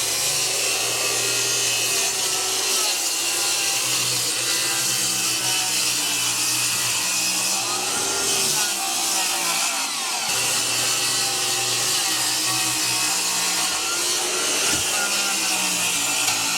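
Electric power saw cutting through wood without a break, its motor note dipping and recovering as the blade loads up.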